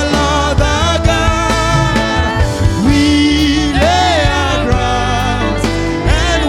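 Gospel worship band music: a melodic line that bends and wavers in pitch over a heavy, steady bass and drum beat, with some wordless singing.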